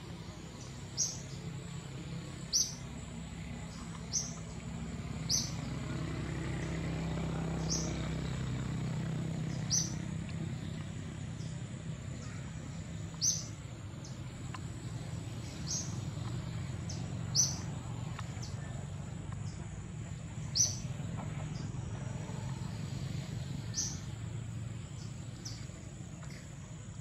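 A bird's short, high chirps, repeated every one to three seconds. Under them run a steady high insect whine and a low rumble that swells and fades once.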